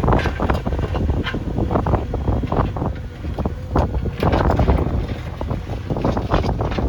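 JCB backhoe loader's diesel engine running, with heavy wind buffeting the microphone in irregular gusts.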